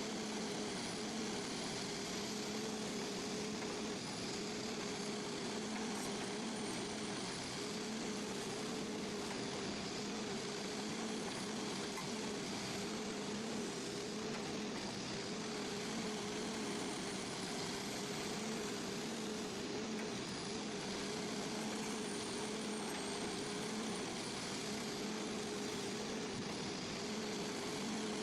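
Engine of a heavy forestry machine running steadily, with a high whine that slowly wavers up and down in pitch.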